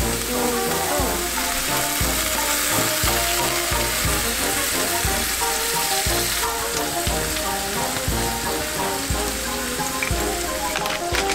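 Minced meat sizzling as it fries in a non-stick frying pan, with background music with a steady beat playing over it.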